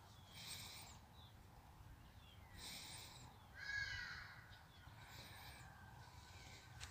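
Faint, harsh bird calls, four short ones spaced one to two seconds apart, the loudest near the middle.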